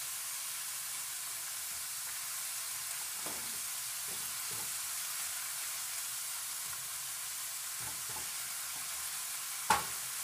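Seasoned chicken and tail-on shrimp sizzling steadily in oil in a nonstick frying pan while a silicone spatula stirs and turns them. A single sharp knock sounds near the end.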